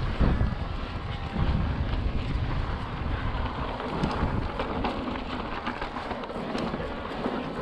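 Mountain bike rolling over slickrock: tyres rumbling on the sandstone, with wind buffeting the microphone and scattered light clicks and rattles from the bike.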